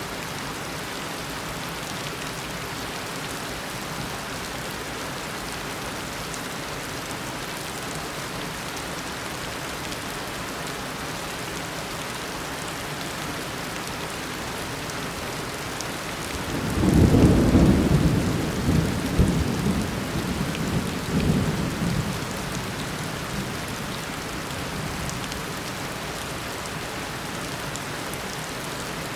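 Steady tropical downpour of rain falling on surfaces. About halfway through, a low peal of thunder swells up, is loudest at first, then rolls on in two more swells and fades out over about six seconds.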